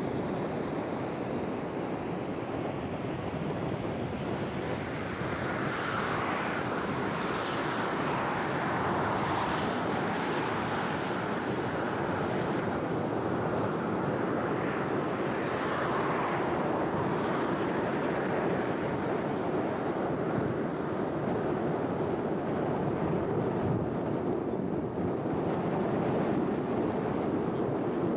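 Steady outdoor noise: wind blowing across the camera microphone over a continuous low rumble, with a few brief gusts of louder hiss.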